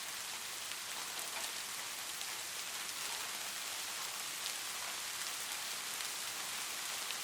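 Steady light rain: a constant hiss of falling rain with scattered individual drops tapping on a surface.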